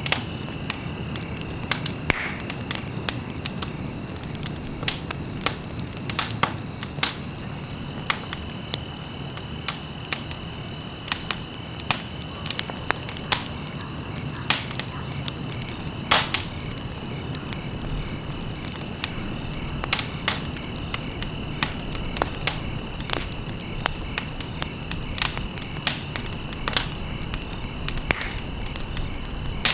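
Wood fire crackling in a fireplace: irregular sharp pops and snaps, a few a second, with one louder pop about halfway through, over a steady low rumble of the flames. A faint steady high-pitched tone runs underneath.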